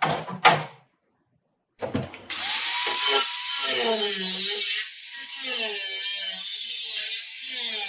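A few sharp knocks, then from about two seconds in a handheld power tool runs continuously with a wavering pitch, easing off briefly twice.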